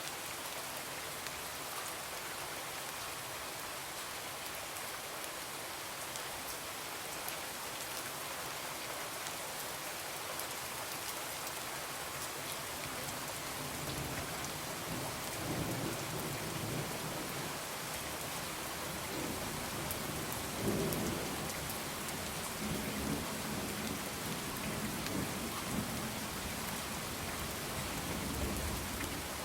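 Steady rain pattering against a window, with low rolling thunder that builds from about halfway through and swells loudest a few seconds later.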